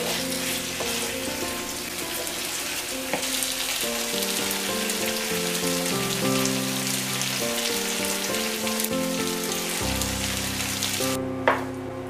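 Chicken pieces in sauce sizzling in a frying pan, with background music playing over it. The sizzling cuts off suddenly near the end, followed by a single sharp knock.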